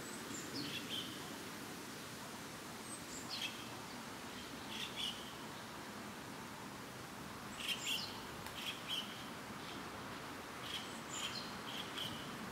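Small birds calling: short chirps and quick downward-sweeping calls, in clusters several times, over a steady low background noise of the surroundings.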